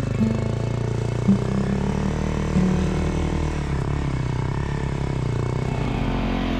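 Single-cylinder Honda CRF250L dual-sport motorcycle engine running while riding, its note shifting pitch several times with throttle and gear changes.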